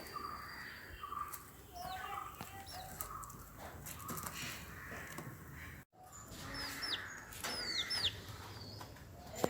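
Chickens calling: short repeated clucks in the first half, then, after a brief cut about halfway through, a run of high, sharply falling peeps.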